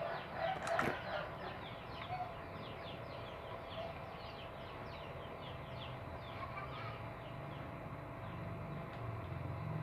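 Small birds chirping: a rapid run of short, high, falling chirps that fades out about six seconds in. A brief clatter under a second in, and a low steady hum underneath.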